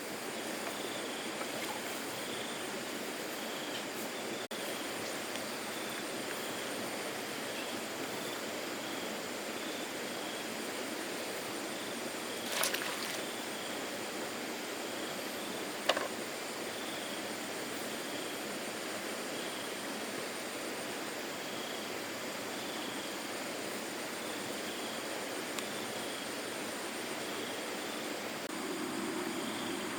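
Steady rush of flowing floodwater, broken by two brief splashes or knocks, one about twelve seconds in and one a few seconds later.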